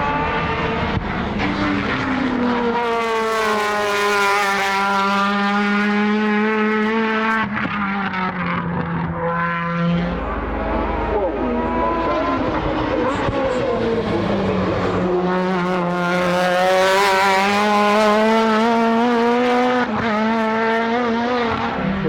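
Modified time attack race car engines at high revs on track. The pitch dips and climbs, with a sudden drop to a low rumble about ten seconds in, then rises to high revs again.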